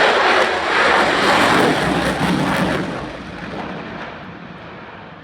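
F-35A Lightning II's F135 jet engine at full afterburner: a loud, broad roar that fades after about three seconds.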